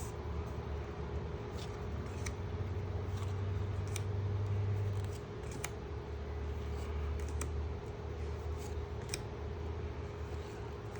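Pokémon trading cards being handled and flicked through one by one: scattered light clicks and slides, over a steady low background hum.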